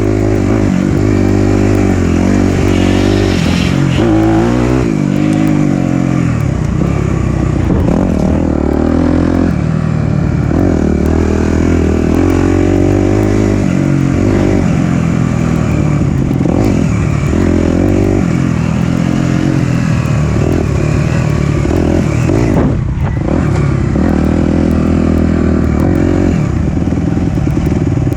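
Four-stroke single-cylinder dirt bike engine running under riding load, its note rising and falling as the throttle is opened and rolled off, with a short drop when the throttle is briefly closed about four-fifths of the way through.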